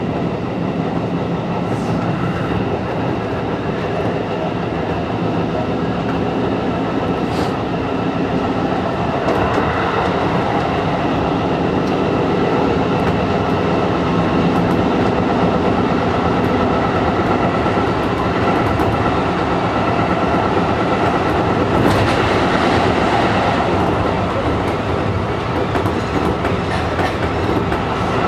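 Seibu 101 series electric train running at speed, heard from the driver's cab: a steady rumble of motors and wheels on the rails, with clickety-clack from the wheels and a few sharp clicks.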